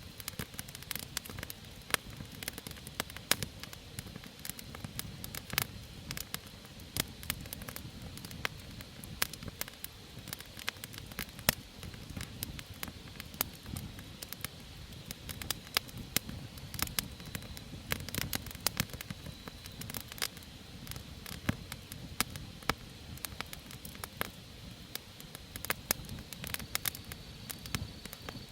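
Wood campfire crackling, with irregular sharp pops and snaps over a low steady rush of the burning fire.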